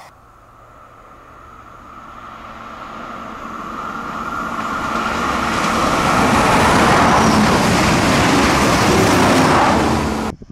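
A diesel passenger train approaching and passing close by, its engine hum and running noise growing steadily louder to a peak, then cut off suddenly near the end.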